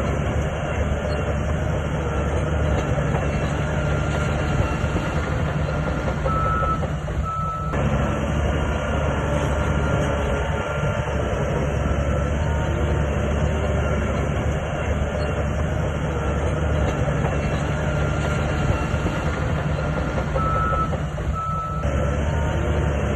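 Crawler bulldozer's diesel engine running steadily under load, with short high tones over the engine, and a brief break about seven seconds in and again near the end.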